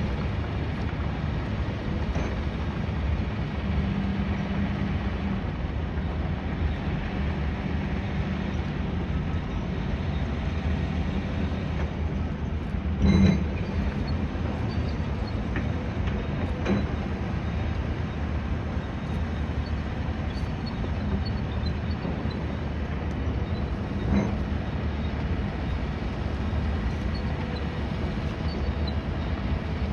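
Steady low rumble of city and construction-site noise, with one sharp knock about thirteen seconds in and fainter knocks later.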